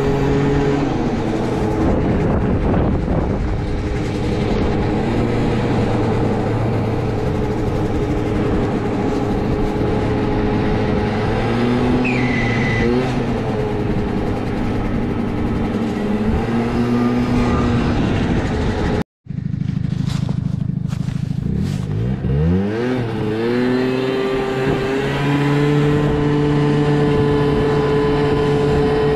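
Piaggio Vespa LX 50's single-cylinder two-stroke engine running through a Yasuni Z sport exhaust, holding steady revs under way. After a brief cut about two-thirds in, the revs dip and then climb back up, and the engine holds steady again.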